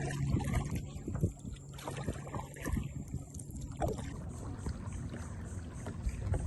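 Kayak paddle dipping and pulling through calm water, with irregular splashes and water noise against the hull.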